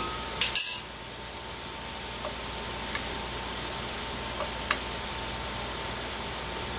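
Sharp metallic taps on the reassembled rear drum-brake shoes and hardware, checking that everything is seated: a few taps in the first second, then a steady faint hiss with a couple of light ticks.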